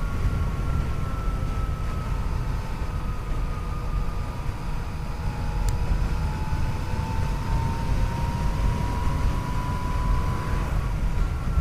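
Yamaha FJ-09's three-cylinder engine running at a steady cruise, its whine dipping slightly and then slowly rising as speed changes, under a heavy low rumble of wind on the microphone. One brief click near the middle.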